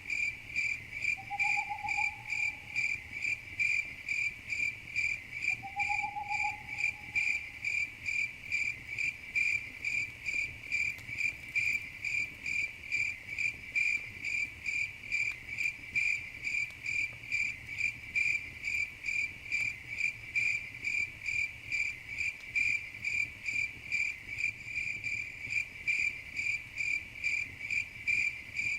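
Crickets chirping in a steady, even rhythm of several high-pitched chirps a second. Twice in the first several seconds a lower call, about a second long, rises slightly and then holds.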